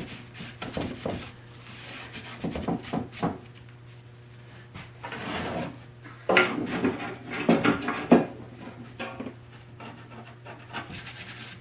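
A rag rubbing and wiping over a wooden machinist's chest, in uneven strokes, with scattered knocks of the wooden parts being handled, the loudest about eight seconds in. A low steady hum runs underneath.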